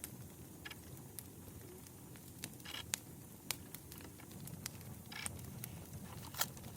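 Campfire crackling: a steady low rumble of burning wood with scattered sharp pops, the loudest about three seconds in and again near the end.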